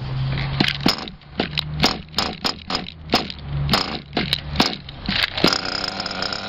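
Toki .27 nitro engine on an RC buggy being turned over in short bursts by its starter during an attempt to start it, among many sharp clicks and rattles.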